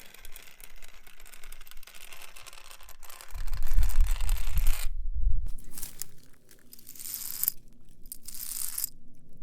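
A metal nail worn on a fingertip scratching across a wall, with a low rumble about three seconds in. After a short break about five seconds in, it scrapes another wall in separate strokes.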